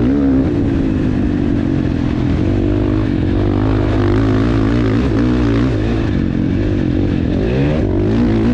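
KTM 450 single-cylinder four-stroke dirt bike engine being ridden hard, its pitch rising and falling repeatedly with throttle and gear changes.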